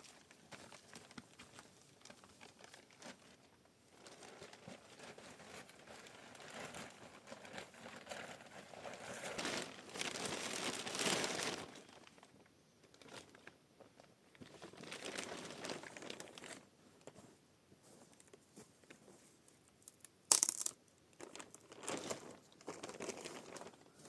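Irregular rustling and crinkling of handled material, loudest in a stretch about ten seconds in, with one sharp, brief crackle about twenty seconds in.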